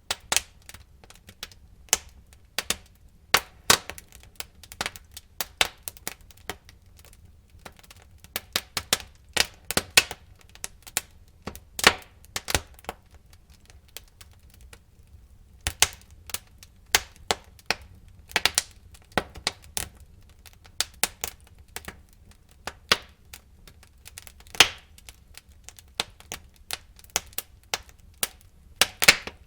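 Wood fire burning in a fireplace, with irregular sharp crackles and pops from the burning logs over a faint low rumble.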